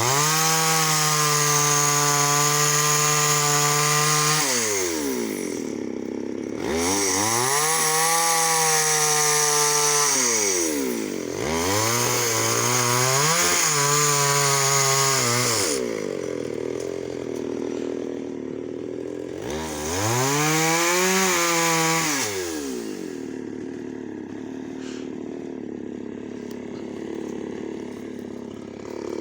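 Chainsaw engine run up to full throttle four times, each held for two to four seconds before dropping back to idle. It idles steadily through the last several seconds.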